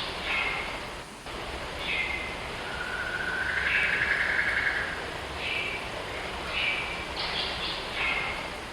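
Birds calling: a string of short falling calls repeated about once a second, and one longer call lasting a couple of seconds near the middle, over a steady background hiss.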